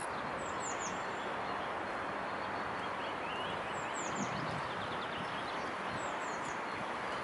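A small songbird repeating a short phrase of three quick, high, falling notes, four times, over a steady outdoor background hiss.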